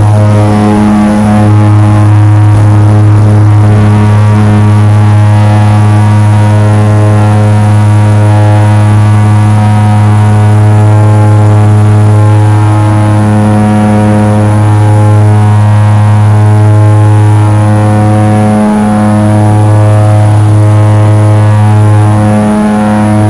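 Seaplane's propeller engine running at steady high power, a loud even drone that holds one pitch, with a couple of brief dips in the hum.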